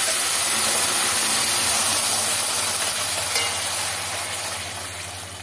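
Wet onion, garlic and tomato paste sizzling in hot oil with cumin seeds and dry red chillies in a steel kadhai: a loud, steady hiss as the paste hits the oil, slowly dying down.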